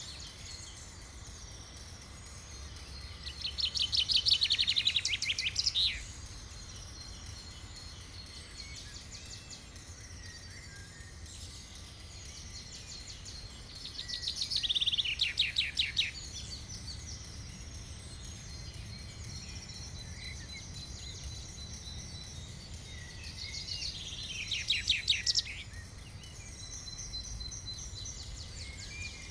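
A bird singing three times, about ten seconds apart: each song a rapid trill of repeated high notes lasting two to three seconds. Under it run a steady low rumble and faint high chirping.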